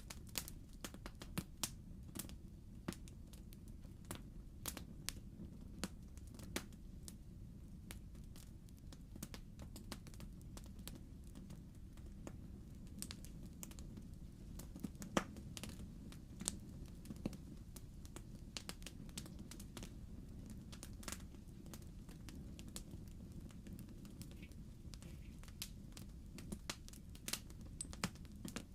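Wood fire crackling in a fireplace: irregular pops and snaps over a low, steady rumble of the flames, with one sharper snap about halfway through.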